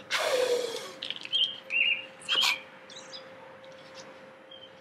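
Small birds chirping, several short high calls spread through the few seconds, with a brief rustling noise at the start and a faint steady hum underneath.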